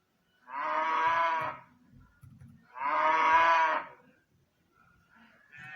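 Recorded cow mooing: two long, drawn-out moos about a second apart, played back as a sound effect.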